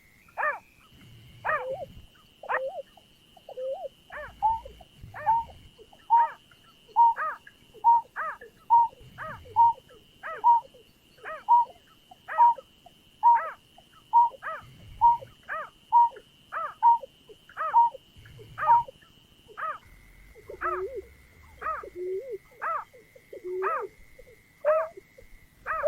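Greater painted-snipe calling: a long series of short hooting notes, about one and a half a second, each falling in pitch, the notes dropping lower toward the end. A faint steady high whine runs beneath them.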